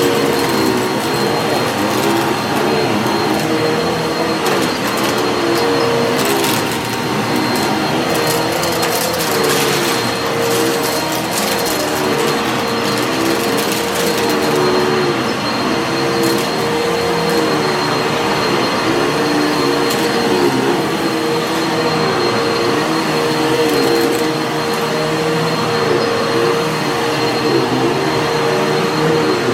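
Vacuum cleaner running on carpet, its motor pitch wavering up and down with each push-and-pull stroke. Crackling and crunching of grit and debris being sucked out of the carpet pile is heaviest in the first third.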